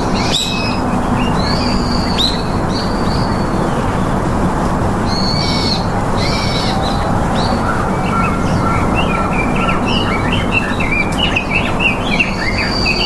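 Birds calling in short, high chirps and whistles, scattered at first and coming thick and quick in the second half, over a steady background hiss.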